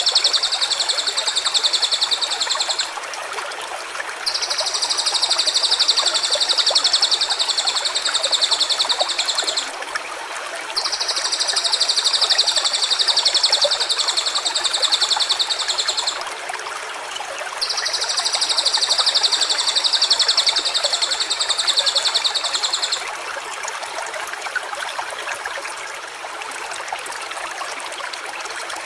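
Four long, very fast, high-pitched trills, each about six seconds, with short gaps between them and stopping about two-thirds of the way in, over the steady rush of a stream.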